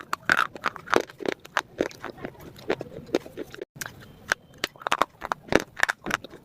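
Crunchy food being bitten and chewed close to the microphone: a run of irregular crisp crunches and crackles, several a second.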